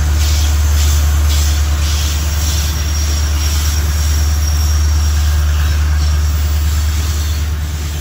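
A long freight train, headed by two EMD G26MC-2U (CC 202) diesel locomotives, rolling past with a steady low rumble. Its wheels clack rhythmically over the rail joints for the first few seconds.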